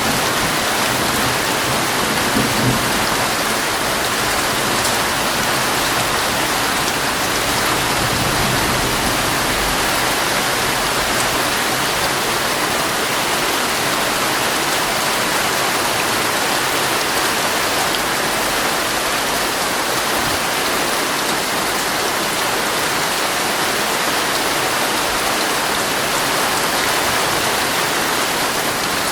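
Heavy rain drumming steadily on a tent's fabric, a dense unbroken hiss. A short low thud about two and a half seconds in.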